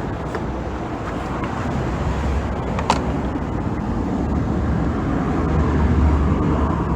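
Steady low rumble of outdoor background noise that swells about six seconds in, with one sharp click about three seconds in.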